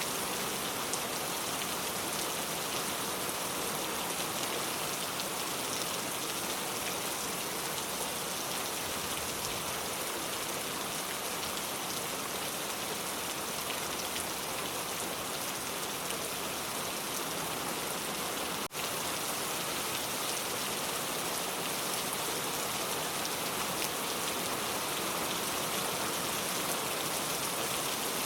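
Steady rain falling, an even wash of noise with no let-up, apart from a momentary dip in loudness about two-thirds of the way through.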